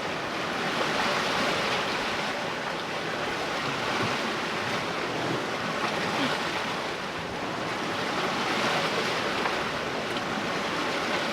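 Sea water rushing and splashing along the hull of a sailboat under way under sail in a moderate sea, with wind on the microphone; the wash swells and eases every few seconds.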